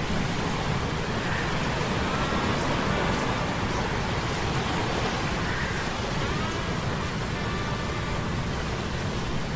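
Sea storm ambience: a steady rush of rain and wind noise with a deep rumble underneath. Faint wavering high tones come and go over it.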